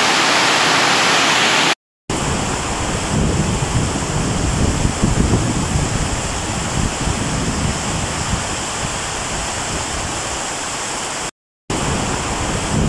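Torrential rain pouring down in a dense, steady hiss, with floodwater rushing along the street. The sound cuts out briefly twice; after the first break an uneven low rumble runs under the hiss.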